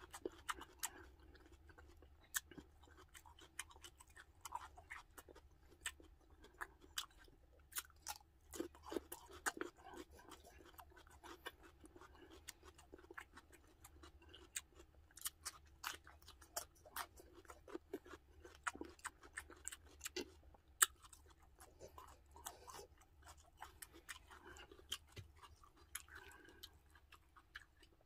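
A person chewing and crunching a raw green chili pepper, with many sharp, irregular mouth clicks throughout.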